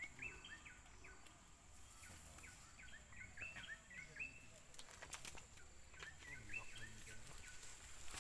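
Faint bird chirping: short, quickly repeated calls in clusters, with a few faint clicks about five seconds in.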